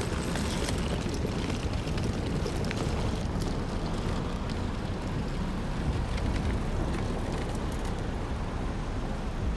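Steady outdoor rumble of street noise: road traffic, with wind buffeting the microphone.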